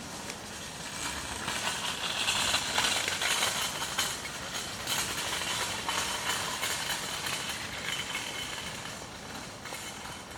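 A steady rushing noise that grows louder a couple of seconds in and then slowly fades, with faint scattered clicks through it.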